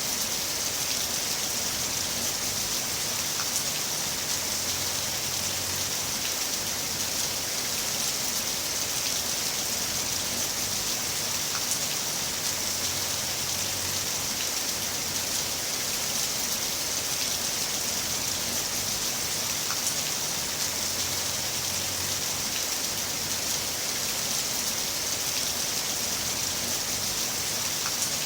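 Heavy rain falling steadily, a dense even hiss of drops on surfaces with faint scattered individual drop ticks.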